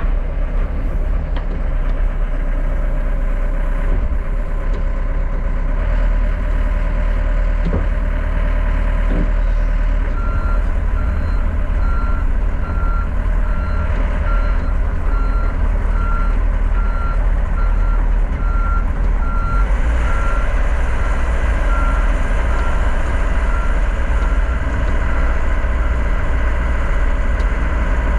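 John Deere 60G compact excavator's diesel engine running steadily under load. About a third of the way in, its travel alarm starts beeping repeatedly as the machine tracks, and it keeps beeping to the end.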